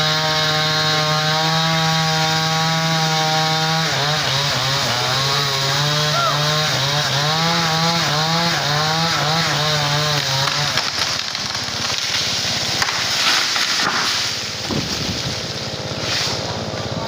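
Chainsaw running at steady speed, then cutting into a branch, its engine pitch dipping and recovering in a regular rhythm of about one swing a second. Near the end the engine note fades into rougher, noisier sound.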